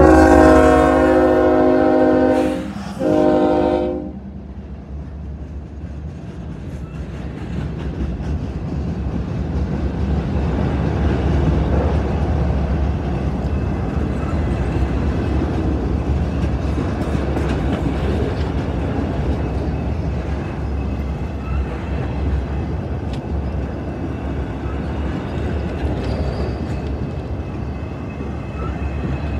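Air horn of Norfolk Southern heritage locomotive 8103 in Norfolk & Western paint, a GE ES44AC diesel. It gives a long blast that stops about two and a half seconds in, then a short blast ending about four seconds in. After that comes the steady rumble and rolling noise of a long string of autorack cars going by.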